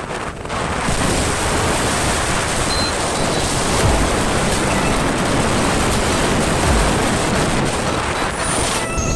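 Steady rushing wind noise on the microphone, with low buffeting thumps.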